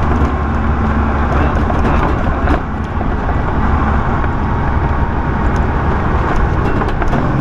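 Semi truck under way, heard inside the cab: a steady low engine drone with road and wind noise.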